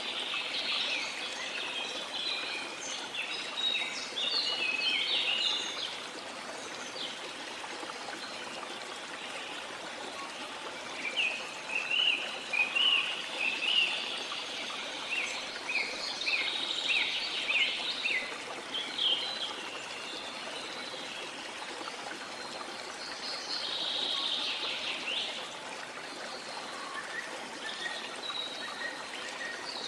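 Small birds chirping in quick runs of notes over a steady rush of sea water. The chirps come in spells: a few in the first seconds, a long run in the middle, and another short spell near the end.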